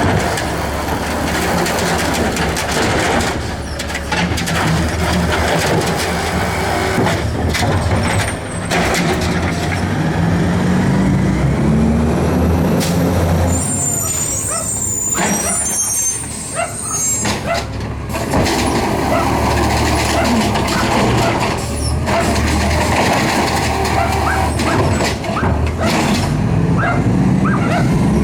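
Garbage truck's diesel engine running loud, its pitch rising around ten seconds in as it revs, with high squealing from about fourteen to seventeen seconds in and a few clicks and knocks later on.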